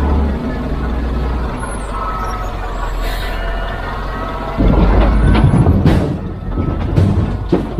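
Heavy construction machinery engine running steadily, then louder and rougher a little over halfway through, with several sharp knocks near the end.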